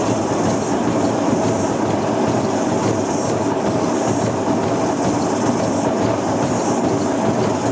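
Old top-loading washing machine spinning with an unbalanced load of lead-acid batteries, running with a loud, steady rattle and rumble. Its bearings are noisy.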